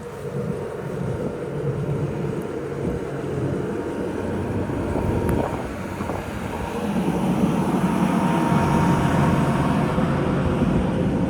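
City street traffic: a large vehicle, such as a streetcar or bus, runs close by, growing louder about seven seconds in.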